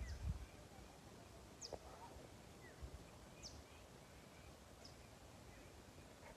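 Quiet outdoor ambience with a few faint, short, high chirps from a bird, each sliding down in pitch, spaced a second or two apart.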